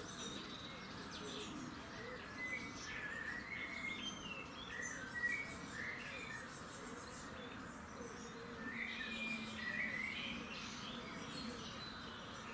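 Several songbirds singing and chirping over a steady background hiss, with bursts of song from about two to six seconds in and again from about eight to eleven seconds.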